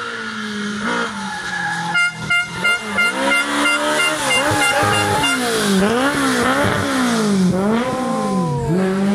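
Rally car engine revving hard, its pitch rising and falling again and again in quick succession as it is driven through a hairpin. Earlier a horn sounds in a run of short blasts, about three a second.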